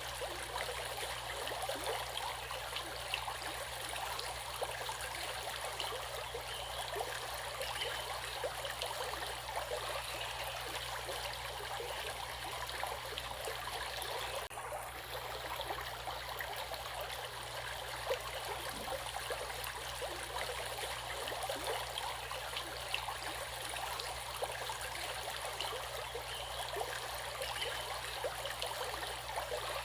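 Running water of a stream: a steady, babbling rush with many small splashes.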